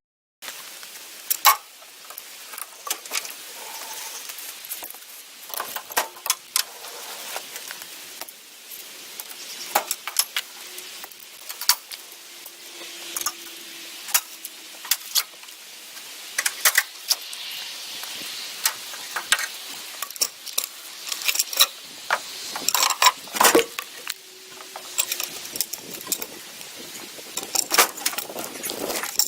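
Ratchet tie-down straps being released from a trailer load of logs: irregular metal clicks, clinks and jangles of the ratchets and hooks, scattered throughout.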